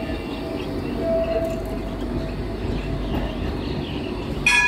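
Nottingham tram running through the stop, a steady rumble with a faint hum from its traction motors. Near the end comes a brief high ringing sound.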